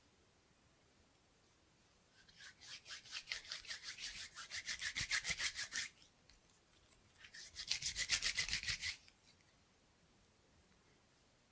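Rubber bands being rubbed in quick, even strokes, about seven a second, in two runs: a longer one of about four seconds and a shorter one of about two seconds.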